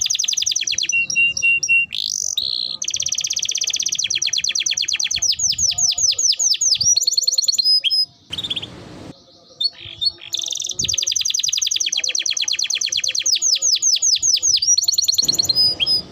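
Domestic canary singing long, rapid trills of repeated high notes (rolls). There is a pause of about two seconds a little past halfway, broken by a few single chirps, before the rolls start again.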